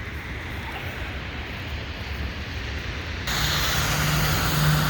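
City street traffic rumbling steadily; about three seconds in it suddenly gets louder, with a broad hiss and a steady engine hum from a nearby vehicle.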